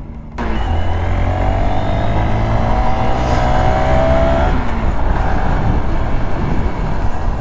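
A car engine accelerating hard, starting suddenly about half a second in, its pitch climbing steadily for about four seconds, then an even rushing noise.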